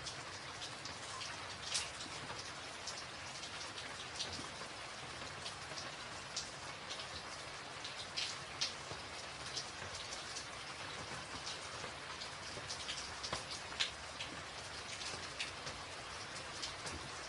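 Rain falling on a tin roof: a steady hiss of rain with single drops striking sharply here and there.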